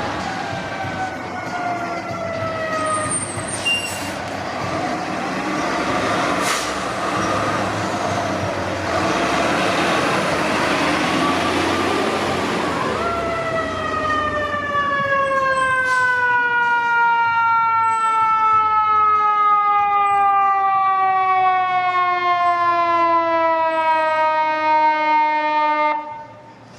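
Fire engine siren and heavy truck engine as pumpers pass on an emergency response. A siren tone falls in pitch at the start, the passing truck noise dominates mid-way, then a long siren tone falls slowly for about thirteen seconds before cutting off suddenly near the end.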